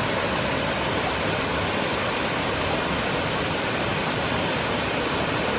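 Steady rush of a small waterfall: an even, unbroken hiss of falling water.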